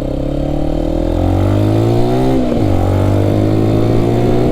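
Single-cylinder Benelli BN 125 motorcycle engine pulling under acceleration: the revs climb for about two seconds, drop sharply at a gear change about two and a half seconds in, then pull on again.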